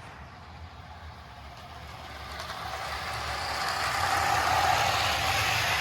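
Toy electric train locomotive, a 1957 Kusan Atomic Train engine, running on its track: the whir of its motor and wheels on the rails grows louder from about two seconds in, loudest near the end as it passes close, over a steady low hum.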